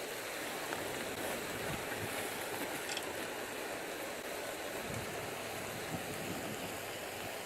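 Steady rush of flowing water, an even noise with no pauses.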